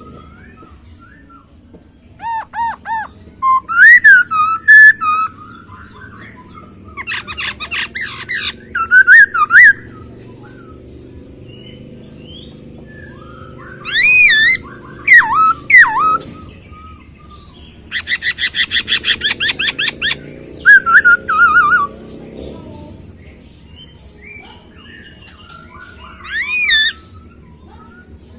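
Poksay Hongkong, a laughingthrush, singing loud, varied phrases with pauses between them. The phrases mix wavering whistles that swing up and down in pitch with fast trills of repeated notes, one running about four seconds from around the middle.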